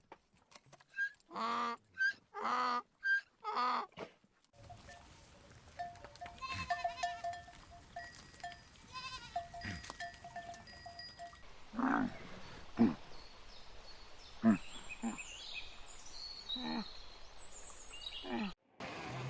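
A series of animal calls: four short pitched calls in the first few seconds, then a steady background with repeated ringing tones, then several short sharp calls.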